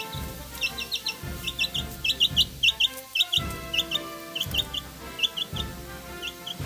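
Background music with held tones and a steady low beat, over which short high chirps sound again and again in quick pairs and triples, like bird calls.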